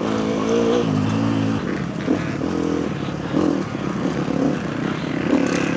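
KTM four-stroke motocross bike engine under hard throttle: the revs climb for about a second and a half, drop suddenly as the throttle is shut, then rise and fall unevenly, with a sharp knock about two seconds in.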